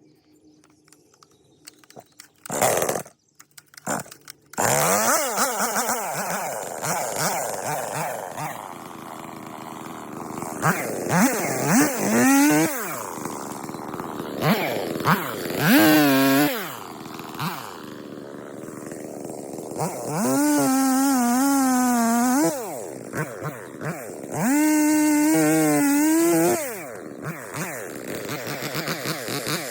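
Stihl chainsaw started with a few pulls of the cord; it catches about four and a half seconds in and idles. It is then revved to full throttle four times for one to two seconds each, the pitch wavering under load as it cuts through small sucker trees.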